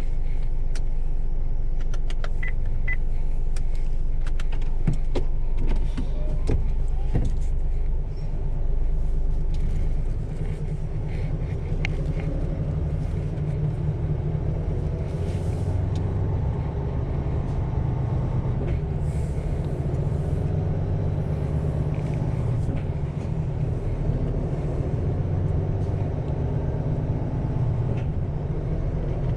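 Isuzu GIGA heavy truck's diesel engine running, heard from inside the cab, with scattered clicks and knocks during the first eight seconds or so.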